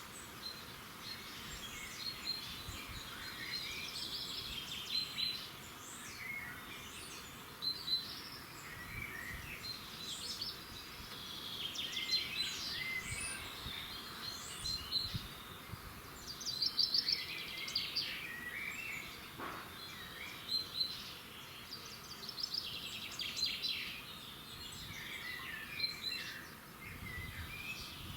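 Several wild songbirds singing and chirping in a dawn chorus, short overlapping phrases and trills following one another without a break, over a steady low outdoor background noise.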